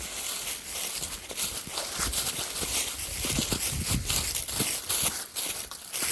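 A large flock of birds calling and chattering together in a continuous din, with footsteps crunching through dry leaves.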